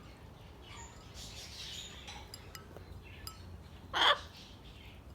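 A pet parrot gives one short, harsh squawk about four seconds in. Before it there are a few faint light clinks.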